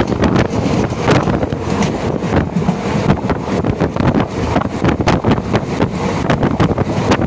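Passenger train running along the track, a steady rumble with irregular clicks and rattles from the wheels and coach, and heavy wind buffeting the microphone.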